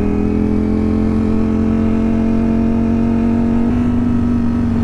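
Ducati motorcycle engine running at a steady cruising speed, its pitch stepping slightly higher a little under four seconds in, with low wind rumble.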